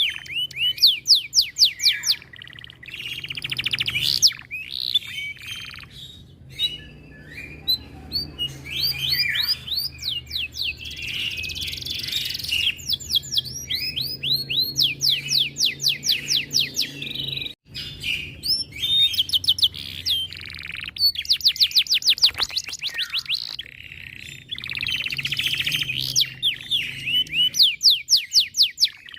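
Domestic canary singing a long, loud song of fast rolling trills: rapid runs of repeated sweeping notes in bursts of a few seconds, broken by short pauses and chattering phrases.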